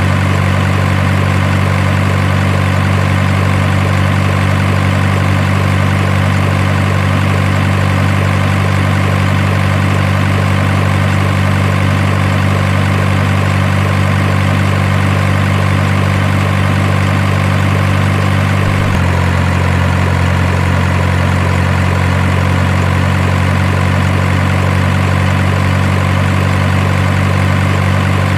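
Steady idling truck-engine sound, a constant low rumble whose tone shifts abruptly about two-thirds of the way through.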